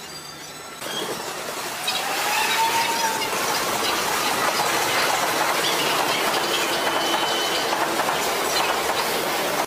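Electric express train passing close by a station platform, its wheels clattering over the rail joints under a steady rush of running noise. The noise grows louder about two seconds in, with a brief rising whine at that point and a thin high squeal later.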